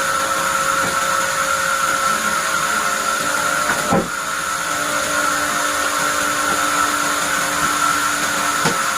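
Sawmill bandsaw running steadily with a high whine, with a sharp knock about four seconds in and a lighter one near the end.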